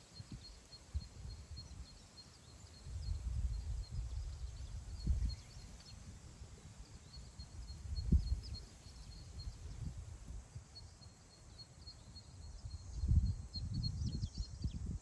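Wind over open grassland, gusting against the microphone as a low rumble that swells several times and eases off between gusts, with wild birds chirping faintly and rapidly in the background.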